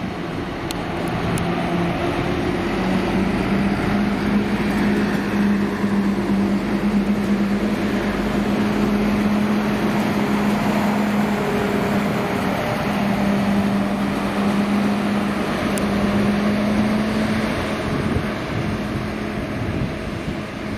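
A train running through the station, its drive giving a steady hum with a couple of held tones. It grows louder about two seconds in and eases off near the end.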